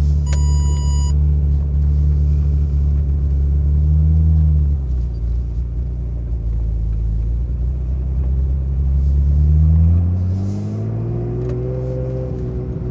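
Ferrari F355's V8 running through a Kreissieg exhaust while driving at low revs. The engine note climbs briefly and drops twice, about four and ten seconds in, then rises steadily again before levelling off near the end. A short electronic beep sounds near the start.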